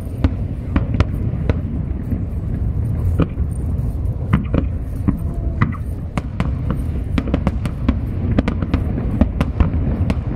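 Aerial fireworks display: a dense, irregular run of sharp bangs and crackles over a steady low rumble.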